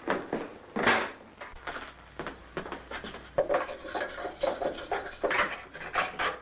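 A run of irregular knocks and wooden clatter, the loudest about a second in.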